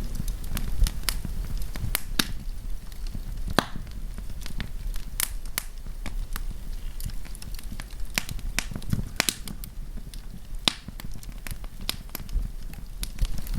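Wood campfire burning, with irregular sharp crackles and pops over a low rumble of flame.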